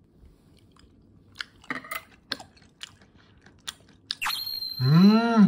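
A person chewing raw fish sashimi, with soft wet mouth clicks, then a sharp clink about four seconds in that leaves a high ringing tone. Near the end a loud drawn-out hummed "mmm" of enjoyment, rising then falling in pitch.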